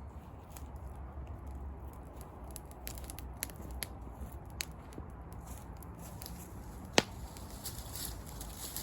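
Wood campfire crackling, with scattered sharp pops and one loud pop about seven seconds in.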